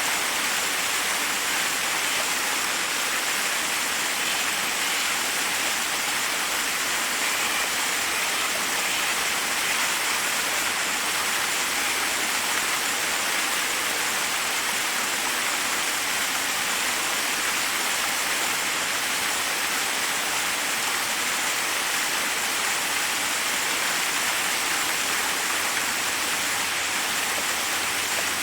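Forest waterfall: water cascading over rocks in a steady, unbroken rush, bright and hissy with little low rumble.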